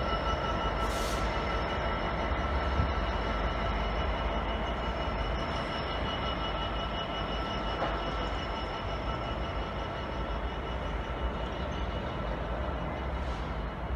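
A train running, a steady rumbling noise with several held high whining tones, slowly getting a little quieter.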